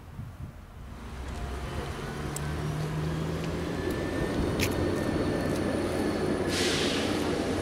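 PESA SA133 diesel railbus pulling into a halt: its engine and wheel noise grow steadily louder, with a thin high squeal and a short hiss of air near the end.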